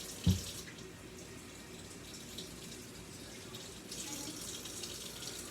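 Water running steadily with an even hiss, after a single dull thump just after the start.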